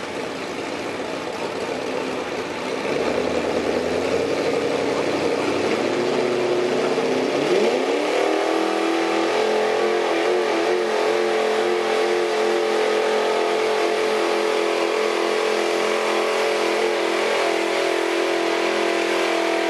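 Truck engine revving under heavy load in a truck pull. Its pitch climbs steeply about seven seconds in, then holds steady at high revs.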